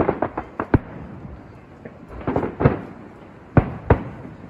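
Fireworks and firecrackers banging in quick irregular succession: a cluster of sharp bangs in the first second, more around two and a half seconds in, and two loud bangs close together near the end.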